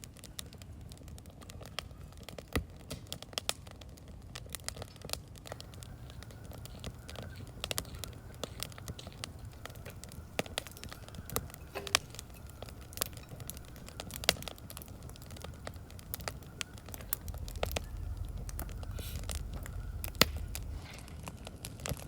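Wood fire crackling and popping in a large steel fire pit, with a steady low rumble that grows louder about three-quarters of the way through.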